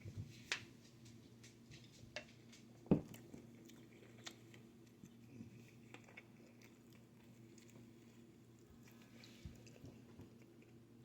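A person chewing pizza close to the microphone, with scattered soft mouth clicks; the loudest comes about three seconds in.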